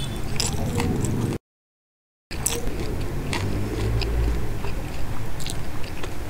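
Close-miked mouth chewing a handful of Bombay duck (lote fish) mash and rice, with scattered wet clicking mouth sounds. The sound cuts out completely for about a second early on, then the chewing resumes.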